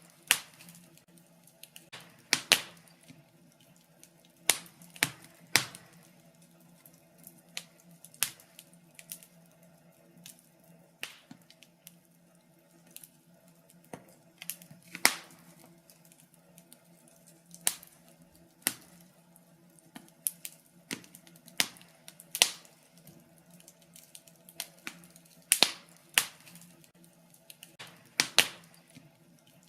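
Wood fire in a fireplace crackling, with irregular sharp pops and snaps every second or so, a few much louder than the rest. A faint steady low hum runs underneath.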